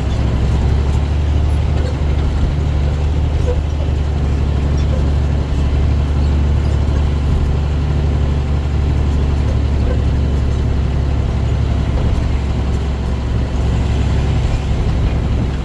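Dump truck's diesel engine running under way, a steady low drone heard from inside the cab along with road noise.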